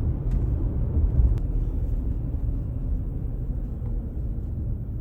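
Low, fluctuating rumble of outdoor background noise, with no clear engine tone.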